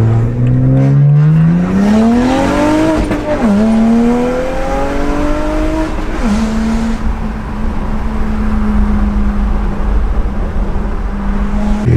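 The straight-piped twin-turbo 3.0-litre N54 inline-six of a BMW 135i accelerating hard, its note rising in pitch. It dips briefly at gear changes about three and a half and six seconds in, then holds a steady note.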